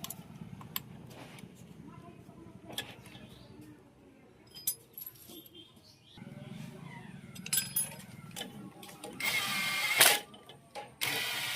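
Metal tools and engine parts clinking and tapping during motorcycle engine work, with two short, loud bursts of noise near the end.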